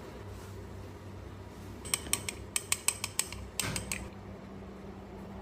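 A manual coffee grinder being handled: a quick run of about eight sharp metallic clicks, then a brief rattle.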